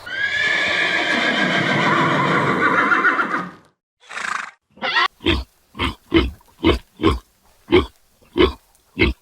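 A horse whinnying in one long call lasting about three and a half seconds. It is followed by a short breathy snort and then a run of short, regular pulses, about two a second.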